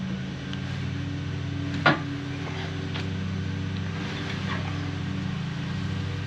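One sharp metal knock about two seconds in, then a few fainter clinks, from steel sled parts being handled and fitted. A steady low machine hum runs underneath.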